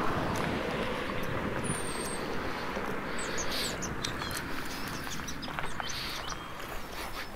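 Small songbirds chirping, a scattering of short high calls and whistles over a steady outdoor hiss and low rumble.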